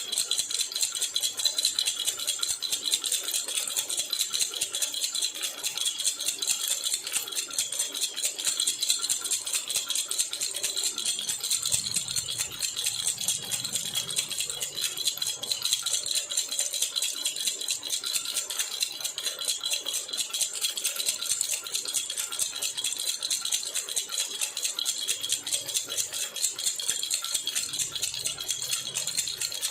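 Jhunjhuna baby rattle shaken rapidly and without pause, a dense, even jingling.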